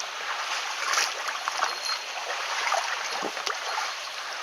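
Mountain stream water running steadily, with a few short knocks or splashes over it, the sharpest about a second in.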